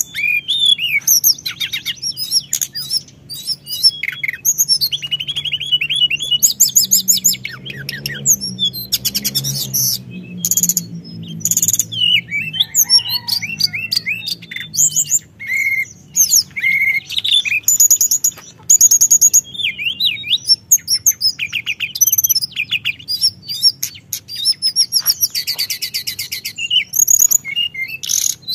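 A teledekan gunung songbird singing continuously: rapid trills, chirps and whistled notes following one another with hardly a pause. A faint low hum runs underneath for several seconds in the middle.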